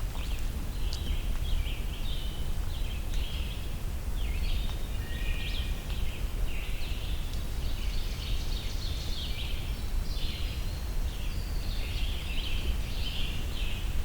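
Scarlet tanager singing a continuous run of short, sore-throatish, burry phrases, mixed with other birds' songs over a steady low rumble.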